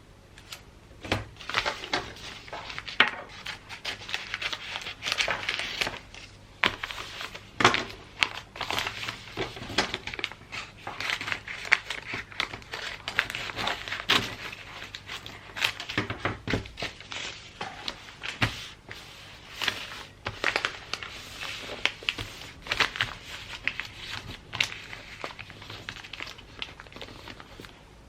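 Gift-wrapping paper being crinkled and handled, with many short crackles and scattered sharper taps and clicks.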